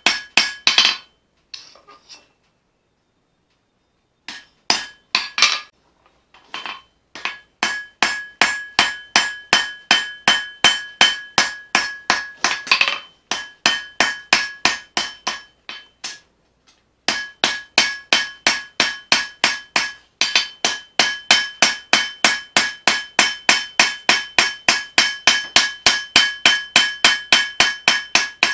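Forging hammer beating hot leaf-spring steel on an anvil, with steady blows about three a second and a metallic ring on each strike. The hammering stops about a second in, resumes some four seconds in, and pauses briefly once more past the middle.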